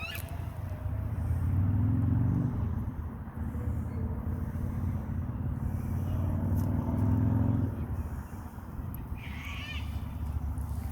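A motor vehicle's engine running, swelling about a second in and dropping away near the end, with a short high bird call at the start and another near the end.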